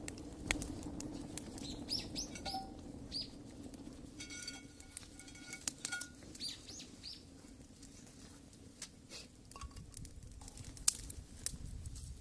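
Small birds chirping in quick falling notes, in two short runs, over a steady low hum with scattered sharp clicks.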